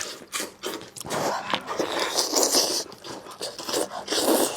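Close-up eating sounds from braised lamb chops: chewing and mouth noises with two longer breathy bursts of air, about a second in and near the end, as the hot meat is cooled in the mouth.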